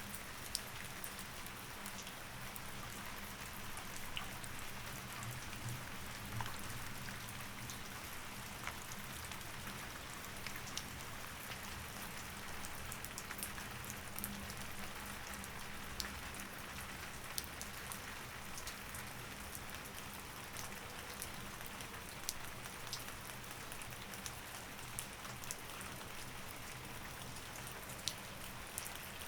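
Steady rain falling, with many separate drops ticking sharply over an even hiss, above a faint low steady hum.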